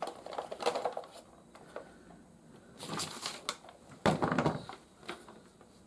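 Hard plastic toy parts being handled and clicked into place, in three short spells of clicking and clattering, the loudest about four seconds in.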